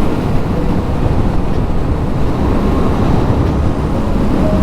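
Yamaha Ténéré 700's parallel-twin engine running steadily while riding, mixed with steady wind and road rush.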